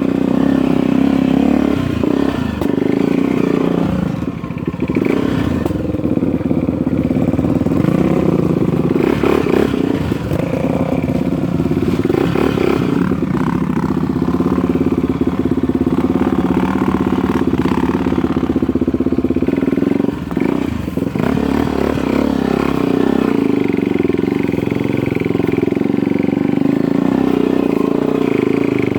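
Dirt bike engine running under throttle on a trail, its note rising and easing, with the throttle backing off briefly a few times.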